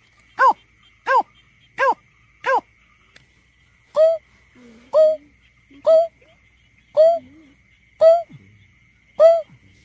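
Greater painted-snipe call played as a lure recording: a series of short hooting notes. Several quicker notes about one and a half a second come first, then after a short pause about three seconds in, a slower series of about one note a second. A faint steady high tone runs beneath.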